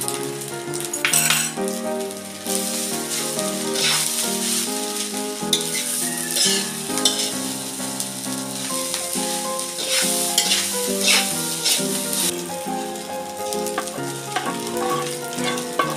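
Fried rice sizzling in a metal wok as a metal spatula stirs and scrapes through it, with louder scraping strokes every few seconds, over background music.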